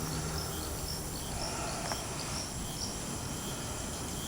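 Insects trilling steadily in a high, even drone, with small repeated chirps over a low background hum of outdoor noise.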